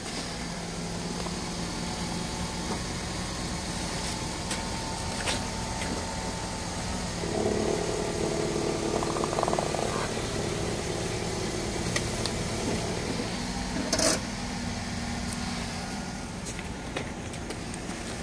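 Car engine running at low speed as the car creeps forward, its hum growing louder for several seconds from about seven seconds in. About fourteen seconds in comes a single sharp knock, the loudest thing here, with a few lighter clicks scattered around it.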